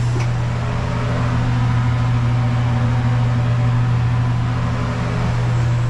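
Steady low hum of a gas range burner running under the cooking pots.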